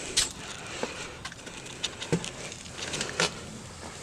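A few irregular sharp clicks and knocks, about four, over faint background noise, with no engine running.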